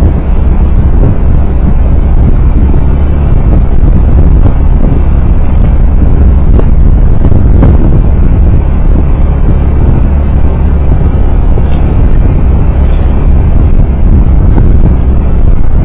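Steady, loud low rumble of a road vehicle under way, engine, tyre and wind noise picked up by a vehicle-mounted recording camera, with a few faint ticks around the middle.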